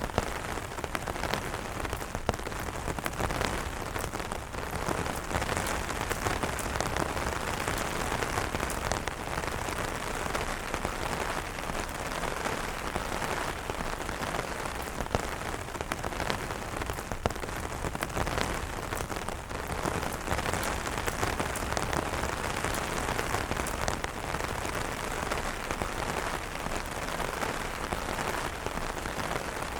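Steady rain falling on umbrella canopies, a dense even hiss broken by many sharp taps of single drops.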